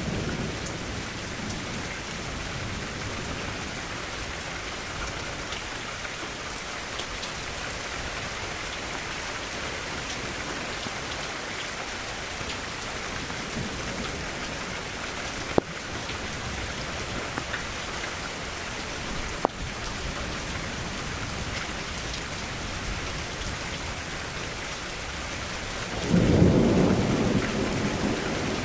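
Steady rain falling, with two sharp clicks in the middle and a roll of thunder rumbling in near the end.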